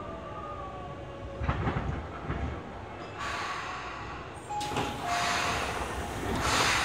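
Tobu 20070-series commuter train standing at a station platform, heard from inside the car: a steady background with a few low knocks, then several bursts of hiss.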